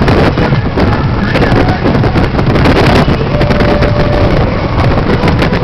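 Motorcycle engines running, heavily buffeted by wind noise on the microphone.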